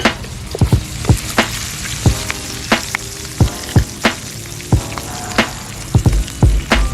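Food frying in a pan, sizzling and crackling, with frequent sharp irregular clicks and knocks, some of them ringing briefly.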